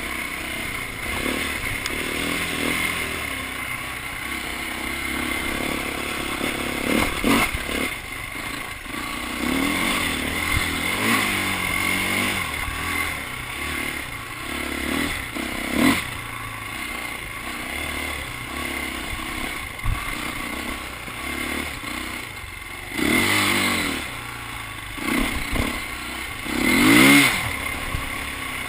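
Dirt bike engine running and being revved, its pitch rising and falling over and over; two strong revs come near the end, the last the loudest.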